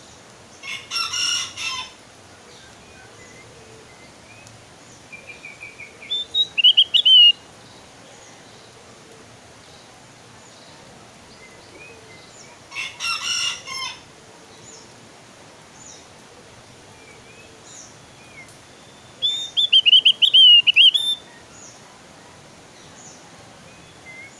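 Javan grey-throated white-eye (opior jawa) singing: two quick, high, warbling phrases, with scattered short chirps between them. Another bird gives two harsher, longer calls, one near the start and one about halfway through.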